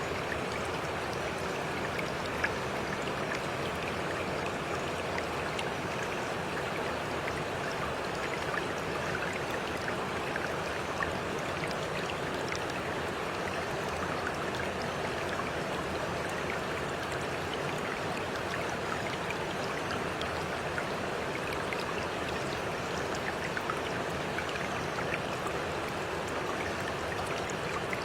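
A stream running steadily, with scattered small splashes.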